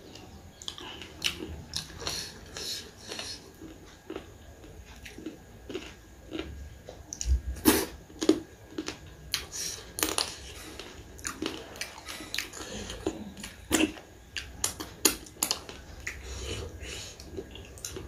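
A person chewing and eating food, with frequent irregular mouth clicks.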